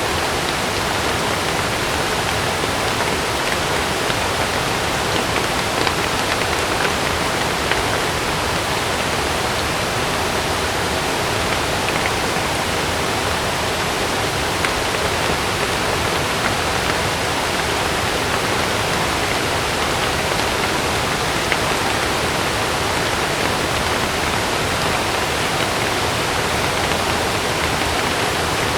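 Heavy rain falling steadily, an even hiss with faint scattered drop taps.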